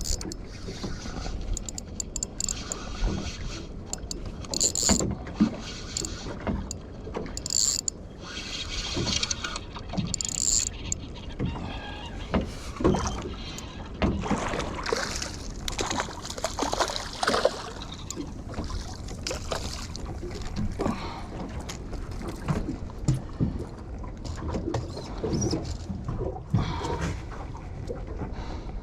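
Ambient sound aboard a small fishing boat: water sloshing against the hull and wind noise, with scattered knocks and splashes.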